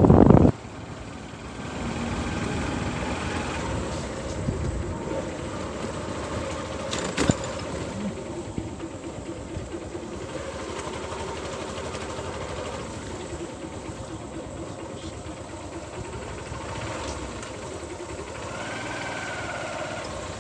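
A motor vehicle's engine running steadily, heard from on board. A loud noise breaks off just after the start, and there is a sharp click about seven seconds in.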